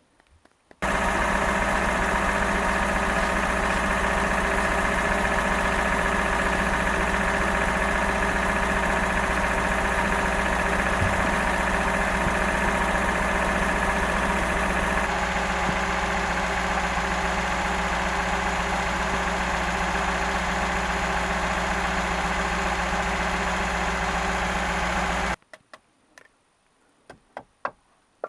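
A motor running steadily at constant speed, starting abruptly just after the beginning and stopping abruptly near the end.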